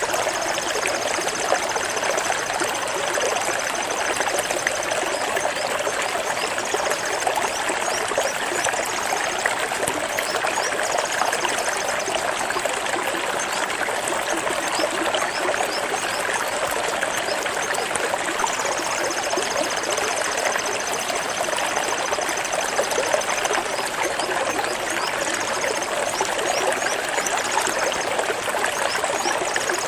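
Flowing water, a steady stream or trickle running and splashing without a break. Faint high trills recur every few seconds above it.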